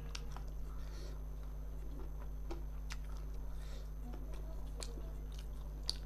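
Close-miked mouth sounds of a person eating fried fish and rice by hand: chewing with scattered wet clicks and lip smacks, and a sharper click near the end. A steady low hum runs underneath.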